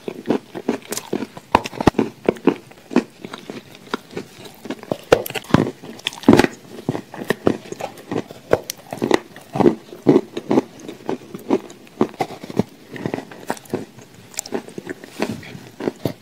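A person chewing and biting into a shortbread cookie spread with chocolate cream: soft, irregular crunches and mouth sounds, several a second.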